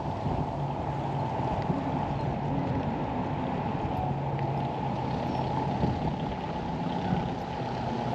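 Steady outdoor harbor ambience: wind rumbling on the microphone, with a low motor hum underneath.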